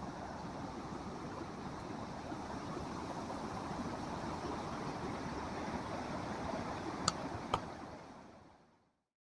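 Swollen creek in flash flood, its floodwater rushing in a steady roar of water noise. Two sharp clicks about seven seconds in, and the sound fades away near the end.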